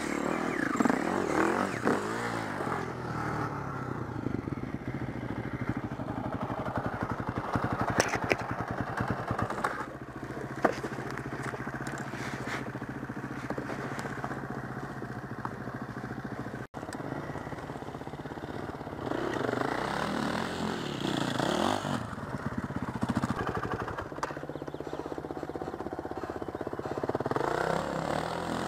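Four-stroke enduro dirt bike engine running, revving up and down in repeated surges with steadier lower-revving stretches between.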